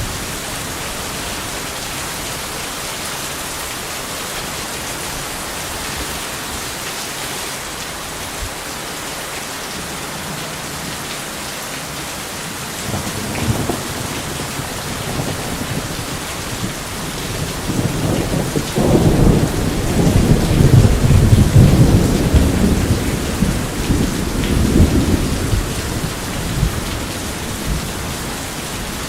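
Steady heavy rain with a long roll of thunder that builds about halfway through, peaks, and rumbles away before the end.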